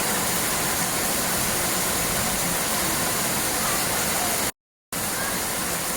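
Steady rushing noise of flowing water, broken near the end by a brief drop to silence.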